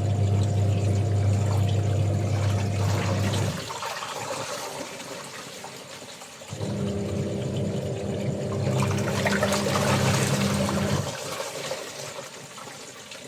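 Washing machine agitating: its electric motor hums for about three and a half seconds, stops, then runs again at a different pitch for about four seconds, with water sloshing and rushing in the tub.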